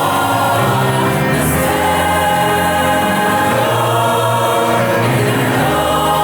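Student chorus singing slow, sustained chords in harmony.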